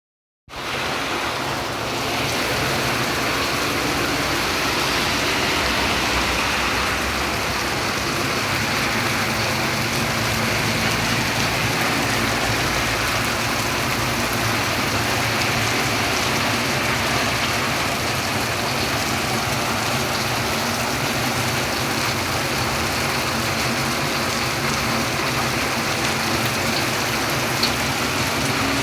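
Summer rain falling steadily, a dense, even hiss that starts about half a second in.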